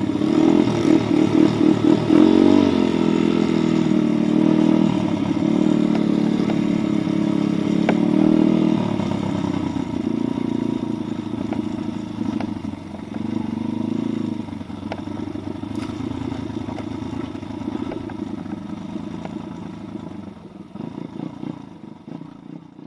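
Pit bike's single-cylinder four-stroke engine running under throttle, revs rising and falling while riding, with some clatter. The engine sound fades away over the last couple of seconds.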